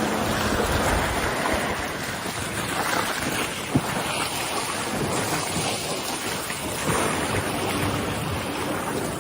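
Strong wind rushing over the microphone while choppy water washes against a floating vehicle. There is a single sharp click about four seconds in.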